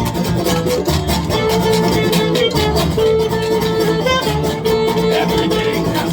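Live folk band playing an instrumental stretch of a song, led by strummed and picked acoustic strings with held melody notes over them.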